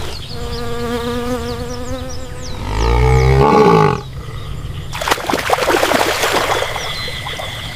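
Water buffalo calling: a long bellow held at a steady pitch, then a louder, deeper bellow about three seconds in, followed by rough, noisy grunting. Faint high chirps sound in the background.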